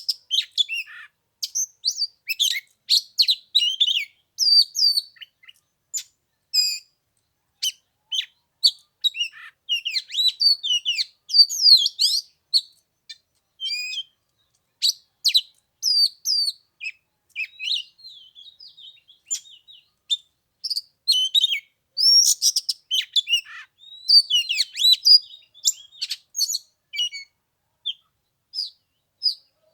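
Oriental magpie-robin singing: a long, varied run of quick high whistles and chirps, broken by short pauses.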